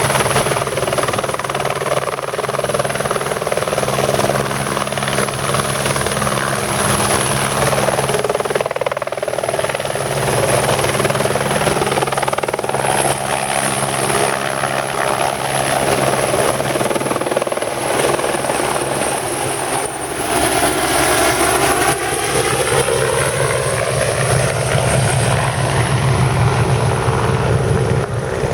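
Helicopter running steadily and loudly: the rotor's low beat and engine noise, with a high turbine whine over it. About twenty seconds in, its tone starts to sweep, as if the helicopter or the listener is moving.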